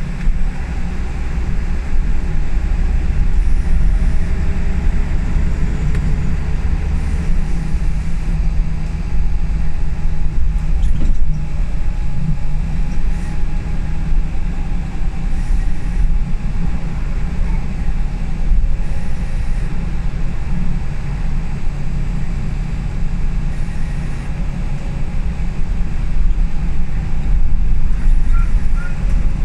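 Interior of a Scania L94UB single-decker bus running under way: a steady low engine drone with rattling from the body, and a whine rising in pitch during the first few seconds as it pulls away or accelerates.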